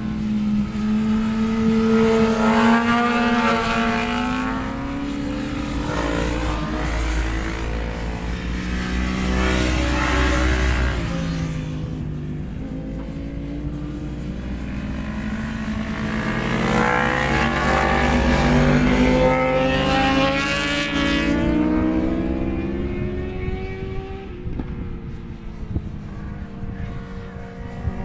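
Racing motorcycle engines on the circuit, high-revving and rising and falling in pitch as bikes come past in several waves, loudest about three seconds in, near ten seconds and again around eighteen to twenty seconds. Low wind rumble on the microphone sits under them.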